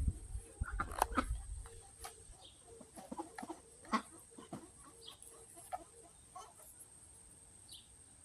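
Chickens clucking softly while pecking at peaches, with scattered short sharp taps among the calls. A low rumble of microphone handling in the first second or two.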